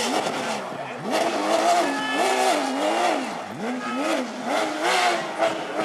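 Porsche rally car's flat-six engine at full effort, its pitch climbing and dropping again several times in a row as it accelerates, shifts and comes off the throttle.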